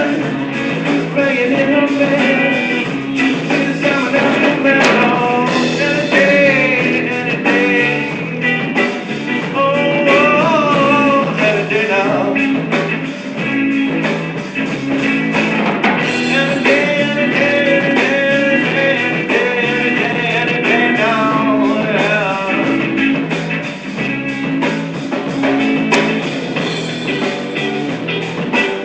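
Guitar music: a song played on guitar, with a melody line moving over a repeating lower accompaniment.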